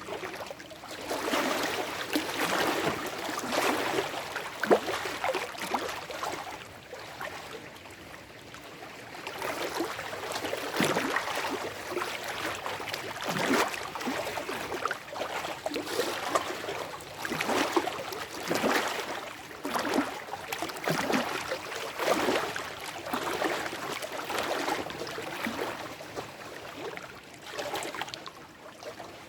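Small lake waves washing and lapping over shoreline rocks, splashing and gurgling in irregular surges every second or two.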